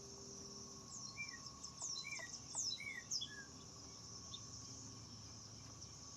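A bird sings a short run of quick, falling chirps for a couple of seconds, over the steady high-pitched trill of crickets.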